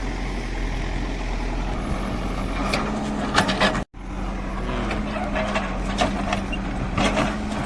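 Heavy diesel engine of a tractor or backhoe running steadily, with sharp knocks and clatter around three seconds in and again near seven seconds. The sound cuts out for an instant just before the four-second mark.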